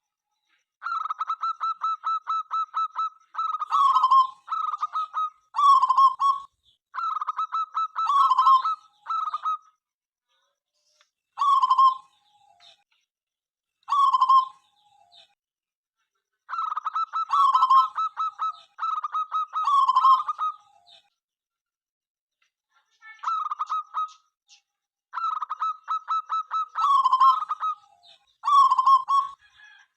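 Zebra dove (perkutut) cooing: repeated phrases, each a quick run of staccato notes that ends in a lower, falling coo, with short pauses between groups of phrases.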